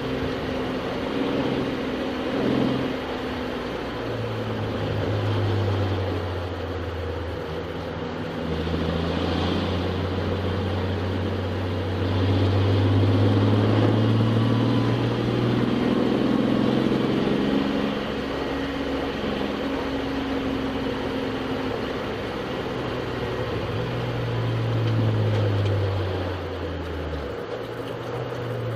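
Touring race car engine heard from inside the cockpit at racing speed. The engine note climbs and then drops several times, as it accelerates and shifts or brakes for corners, over steady wind and road noise.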